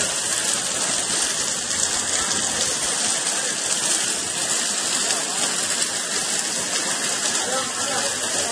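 Heavy rain pouring steadily onto a flooded road, an even hiss.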